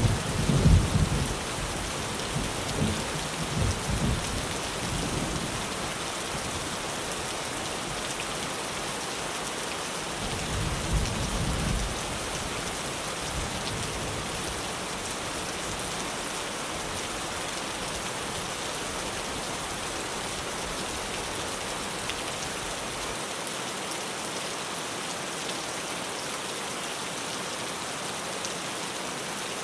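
Rain falling steadily on a tin roof. Thunder rumbles low through the first few seconds and again briefly about ten seconds in.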